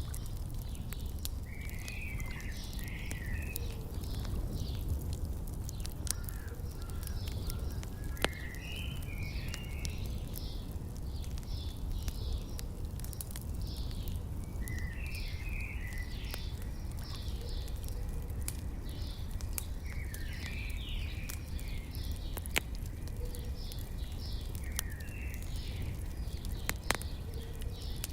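Birds singing outdoors: a run of short high notes repeated throughout, with a chirpy phrase every few seconds. Scattered pops of a crackling fire sound over a low, steady rumble.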